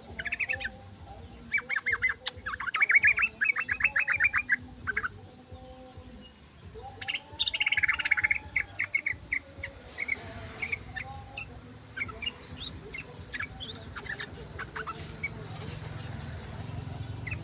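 Sooty-headed bulbuls calling: fast runs of bright, chattering notes in the first few seconds and again about seven seconds in, then scattered short chirps. A low, steady hum rises underneath near the end.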